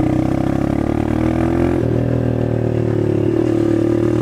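A 125 cc dirt bike engine pulling under throttle in first gear for a low wheelie, its note changing about two seconds in.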